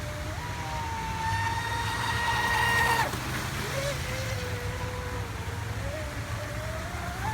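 Brushless electric motor of a Pro Boat Voracity RC speedboat whining at speed, its pitch edging up and then dropping suddenly about three seconds in as the throttle eases, then a lower whine that climbs again near the end.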